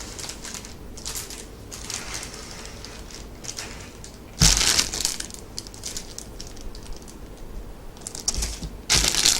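Plastic bags of small toys being handled and rustled, in irregular bursts, with a louder rustle about halfway through and again near the end.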